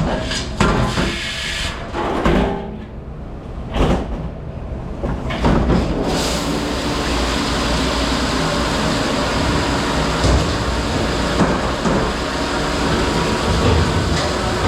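Commercial dishwashing machine running with a steady loud rushing wash noise, which sets in about six seconds in after a few seconds of intermittent clanks and bursts of noise.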